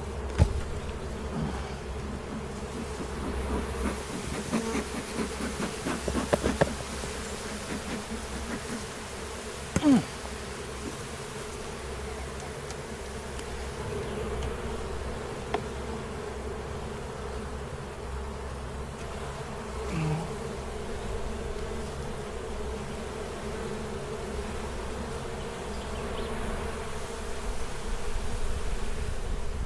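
Honeybees buzzing around an opened hive, a steady hum with single bees swelling louder as they fly close past. A couple of short sharp knocks, one right at the start and the loudest about ten seconds in.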